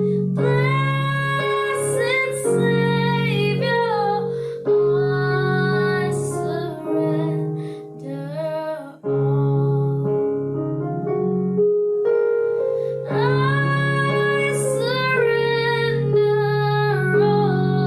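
A woman singing a slow worship song over sustained keyboard chords; her voice drops out for a few seconds in the middle while the keyboard holds on.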